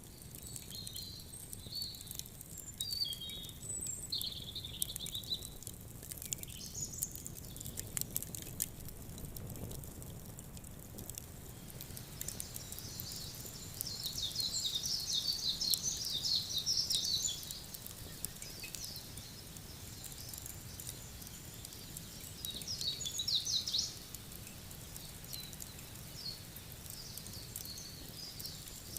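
Small birds twittering in bursts, loudest in the middle and again near the end, with scattered sharp crackles of a wood fire, over a low steady rumble.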